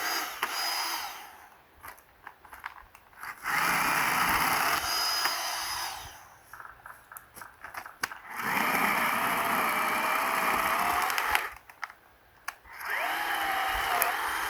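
Cordless 20V battery-powered saw running in four short bursts of a few seconds each, cutting through firewood, with brief pauses between cuts.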